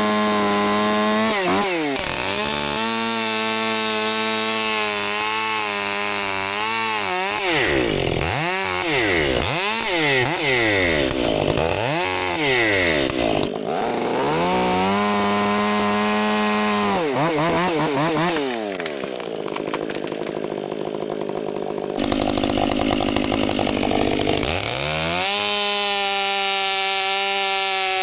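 Two-stroke chainsaw cutting brush at full throttle, its engine note dropping under load in each cut and climbing back between cuts, with a run of quick cuts in the middle.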